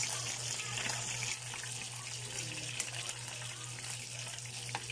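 Steady hiss of cooking on a gas stove: tilapia frying in oil beside a simmering pot of mung bean stew, under a low hum. A metal ladle clicks against the pot twice, about three seconds in and near the end.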